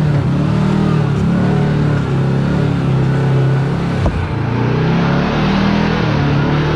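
Side-by-side UTV engine running at low crawling speed, its revs rising and falling as it picks over rough, cambered ground in low-range four-wheel drive, with one sharp knock about four seconds in.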